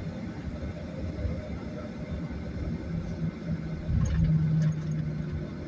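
Steady low rumble of engine and airflow noise inside a Boeing 737 cabin. A low steady hum joins it about three seconds in and grows louder for a second or so near the end.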